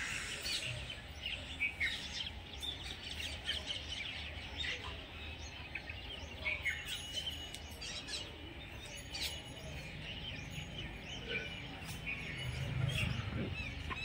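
Small birds chirping in short, scattered calls over a low, steady background noise.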